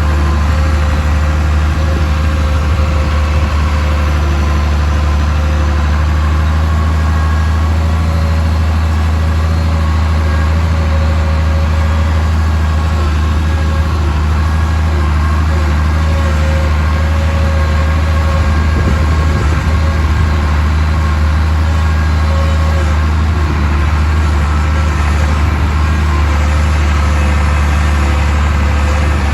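Farmall 666 tractor engine running at a steady speed, a constant low drone with no change in revs.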